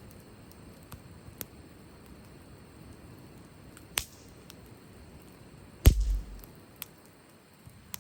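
Firewood crackling as it burns: a few scattered sharp pops, a loud one about four seconds in and the loudest near six seconds, followed by a short low thump.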